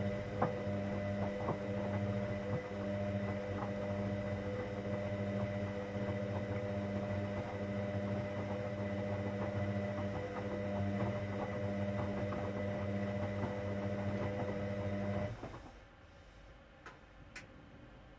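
Hoover Dynamic Next washing machine humming steadily during its 60-degree cotton cycle. The hum cuts off abruptly about fifteen seconds in, and two faint clicks follow.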